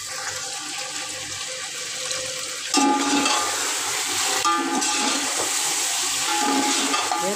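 Raw chicken pieces sizzling in hot oil with browned onions in a large aluminium pot while being stirred with a spatula. The sizzle gets suddenly louder about three seconds in, as the chicken meets the oil.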